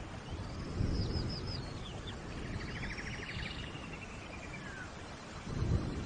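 Songbirds calling over a steady hiss of rain in a forest. There is a run of short, high, falling notes about half a second in, then a fast trill around the middle, with low rumbles near the start and the end.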